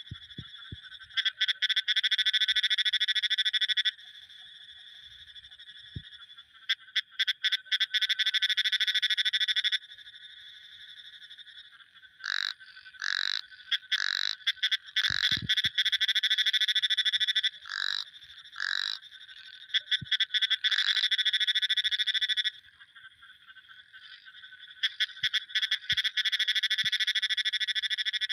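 Frogs calling: long rapid pulsing trills in bouts of a few seconds. In the middle a run of shorter separate calls overlaps a quieter ongoing trill.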